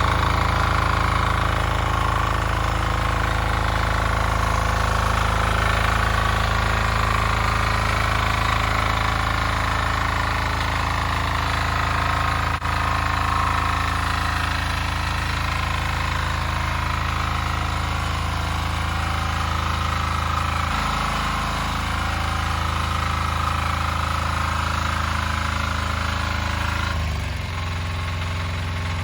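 Single-cylinder diesel engine of a Weima walk-behind tractor running steadily. Its speed shifts slightly about two-thirds of the way in and drops near the end.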